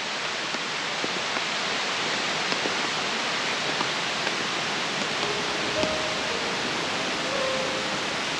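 Steady rushing water noise, the sound of rain and a flowing river, with scattered light ticks. Soft held music notes come in about five seconds in.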